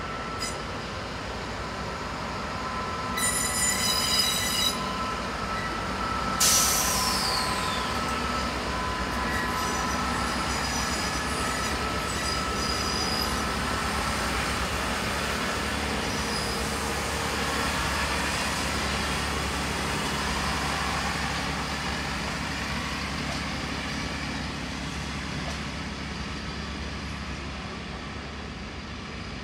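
A train in a station, running with a steady low rumble and its wheels squealing on the rails. A brief high-pitched tone comes about three seconds in, and a sudden loud burst about six seconds in, after which the sound slowly fades.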